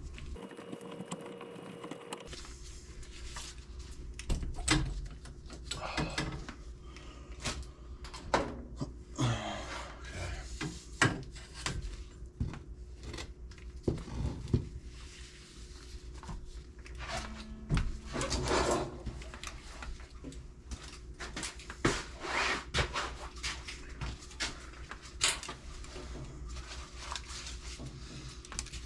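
Scattered clicks, knocks and handling noises of tools and plumbing parts being worked by hand, irregular and with no steady rhythm, over a low steady hum.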